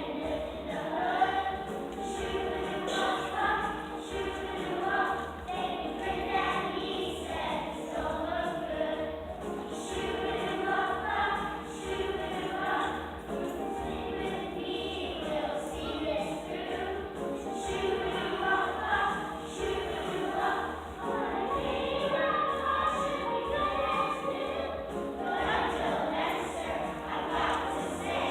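A choir singing a song, with music continuing throughout.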